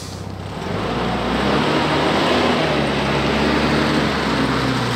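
SUV engine running steadily under a constant hiss, growing louder about half a second in.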